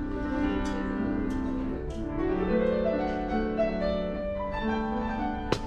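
Piano music with slow, held notes moving in a gentle melody, with one sharp click near the end.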